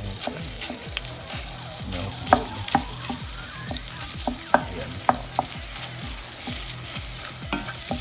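Corned beef and sliced onions sizzling in olive oil in a stainless steel pot as a wooden spoon stirs and breaks up the meat, with sharp knocks of the spoon against the pot, the loudest a little over two seconds in and again around five seconds in.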